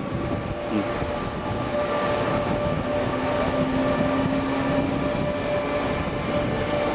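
Tze-Chiang express train pulling out of the station: steady running noise of the train moving off, with a steady hum and a lower tone coming in for a couple of seconds midway.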